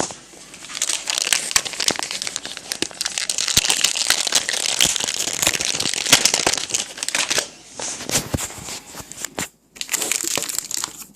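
Foil wrapper of a 2014 Topps baseball card pack crinkling and tearing as it is ripped open and handled, with a brief pause about two-thirds of the way in.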